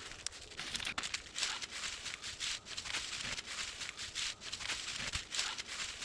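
Dense, continuous rustling and crackling, with many small irregular crinkles.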